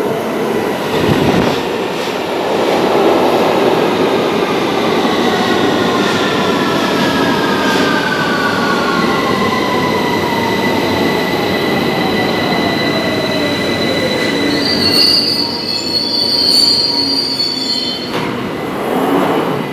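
London Underground Victoria line 2009 Stock train braking into the platform: its traction motor whine falls steadily in pitch over about twelve seconds, then a high squeal from the wheels and brakes near the end as it comes to a stop.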